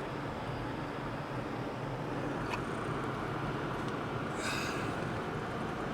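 Steady road and engine noise of a car being driven, heard from inside the cabin, with a single click about two and a half seconds in and a brief hiss near the end.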